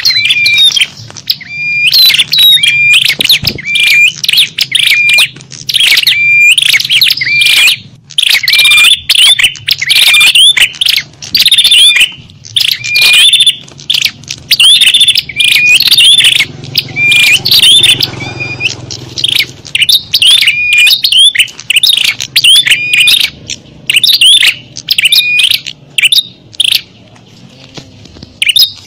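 Small-bird lure call (suara pikat): a busy chorus of small songbirds giving loud, rapid, high chirps and short whistled notes in quick succession. It thins out briefly about two-thirds of the way through, then picks up again.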